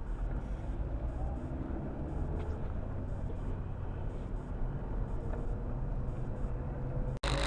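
Steady low rumble of a car's engine and road noise picked up by a dashcam. It cuts off abruptly near the end, where a louder hiss with steady tones takes over.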